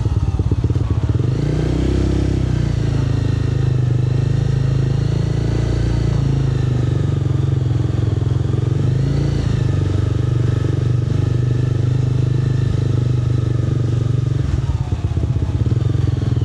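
Yamaha R7's 689 cc parallel-twin engine, breathing through an SC-Project exhaust, running at a steady cruising note while ridden, with small rises in revs around 2 and 9 seconds in.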